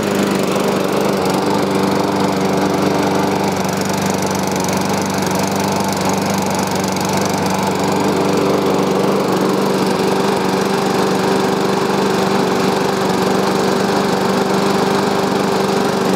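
Toro Personal Pace lawn mower's small single-cylinder gas engine running at a steady speed just after starting. It runs evenly with no rattle, the water that had hydrolocked its cylinder having been drained out.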